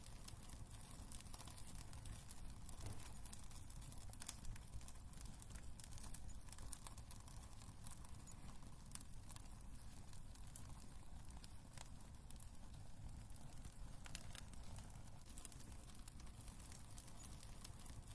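Wood fire crackling in a fireplace: scattered sharp pops and snaps, a few at a time, over a soft steady low rumble.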